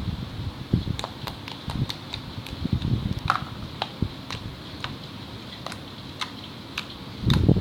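Slime being squished and worked by hand: soft irregular squelches with many sharp little popping clicks, over a faint steady hiss.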